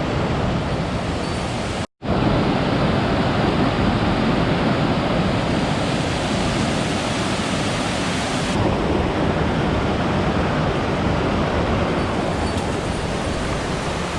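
Rushing water of a mountain stream, a steady dense noise. The sound cuts out completely for a moment about two seconds in, then returns slightly louder.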